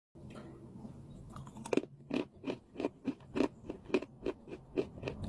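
A person bites into a stick of chalk with a sharp crack, then chews it with crisp crunches about three a second, close to the microphone.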